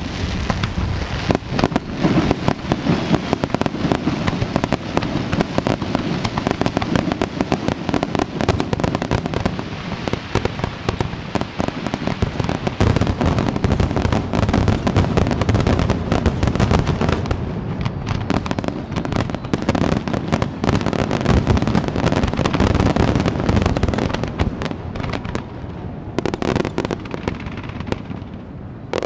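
Aerial fireworks display: a dense, continuous barrage of shell bursts and crackle, easing slightly near the end.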